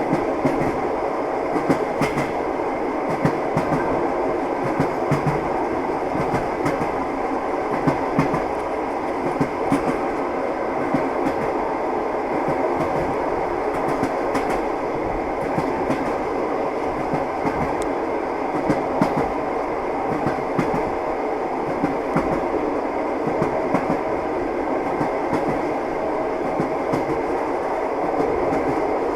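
Train wheels clacking over rail joints above the steady rumble of a moving railway carriage, with repeated sharp knocks at uneven intervals.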